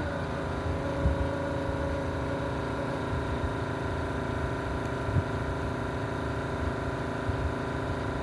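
Vacuum pump of a Yihua 948 desoldering station starting up and running steadily, a hum of several tones that settles in pitch just after it starts. The owner says this pump barely sucks any solder.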